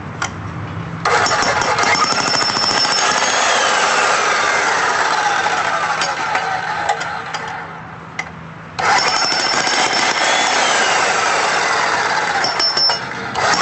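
Jackhammer breaking up rock in two long runs: it starts about a second in, stops briefly past the middle, then starts again.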